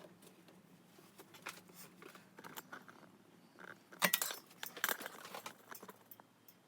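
Light clinking and rattling of small hard objects being handled, with a busier cluster of clicks about four to five seconds in.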